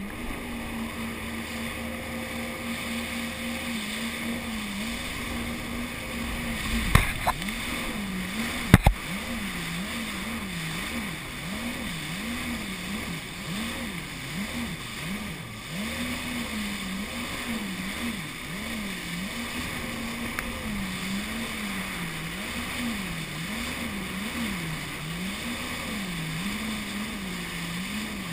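Jet ski engine running under way, its note steady at first and then rising and falling about once a second. Two sharp knocks come about two seconds apart early on.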